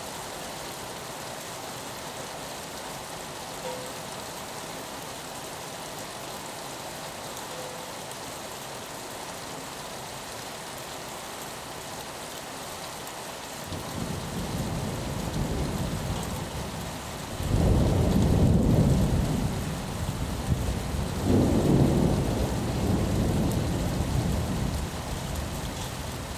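Steady rain hiss, with a low rumble of thunder building about halfway through, rolling in two louder swells, then slowly fading.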